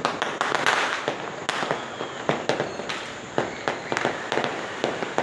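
Many fireworks and firecrackers going off all around, a dense run of sharp cracks and bangs at uneven intervals, some loud and some faint.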